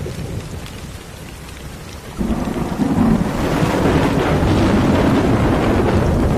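Rain falling with a low rumble of thunder; a little over two seconds in, a loud peal of thunder breaks and keeps rolling.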